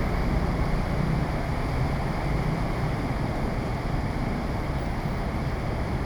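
Heavy rain falling in strong wind: a steady wash of noise with wind rumbling on the microphone.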